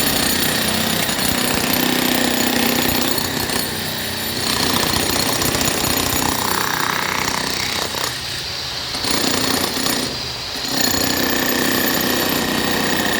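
Jackhammer breaking concrete: rapid, continuous hammering that stops briefly twice in the second half.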